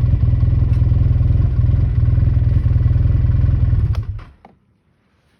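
A motor vehicle's engine running with a steady low pulsing rumble, then cutting off about four seconds in with a few clicks, followed by near silence.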